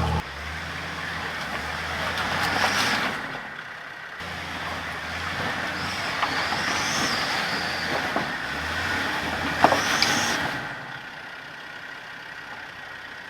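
Four-wheel-drive vehicle's engine revving in surges under load on a rocky climb, with scrabbling noise, a squeal partway through and a sharp knock about ten seconds in, then easing off near the end.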